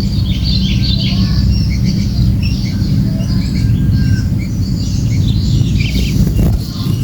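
Small songbird chicks (cembelek) begging at the nest with many short, high, rapid chirps and squawks, over a loud steady low rumble. A short rustle near the end.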